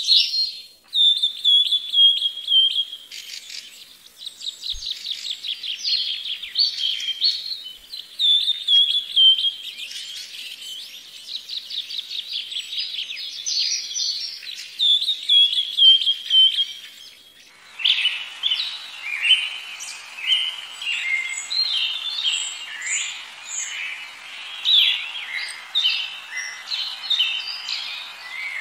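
Small birds chirping and singing in quick, high-pitched phrases and rapid trills. About two-thirds of the way through, a steady hiss joins the birdsong.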